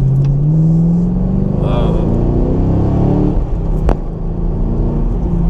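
Camaro SS's LS3 V8 and dual-mode exhaust heard from inside the cabin, rising in pitch as the car accelerates over the first second or so, then running on under light load. A single sharp click comes about four seconds in.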